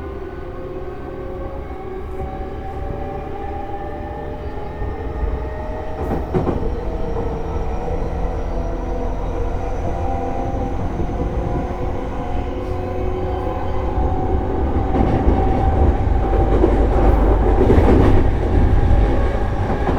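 E233-series electric train heard from inside the car, accelerating away from a station. The traction motors whine in a stack of tones that rise slowly in pitch while the running noise grows louder, with a few knocks from the wheels over rail joints.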